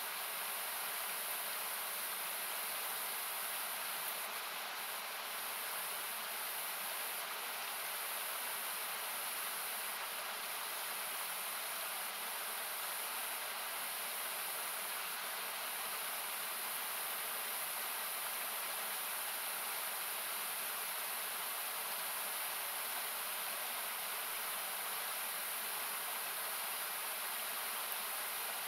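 Steady rushing noise of a river or waterfall, heard as an even hiss thinned by equalizer cuts. A few faint campfire crackles come through now and then.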